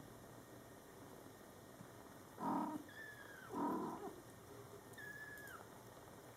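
Mother cat and young Scottish Fold kittens calling: two short, low calls about a second apart, about two and a half seconds in, and two thin high mews that slide down in pitch.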